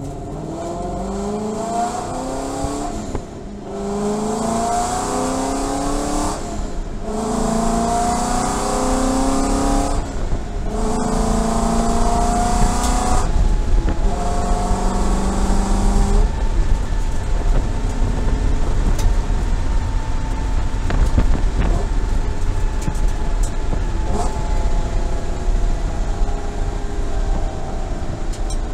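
2014 Ford Boss 302S's 5.0-litre V8 accelerating hard through the gears from a rolling start, rising in pitch in each gear with four short breaks for upshifts. About halfway through it settles into a steadier, slowly falling drone at highway speed. Heard from inside the stripped, roll-caged cabin.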